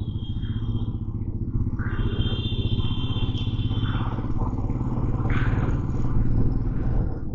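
Motorcycle engine running steadily while riding in city traffic. A high steady tone sounds twice over it: for about a second at the start, and again for about two seconds from two seconds in.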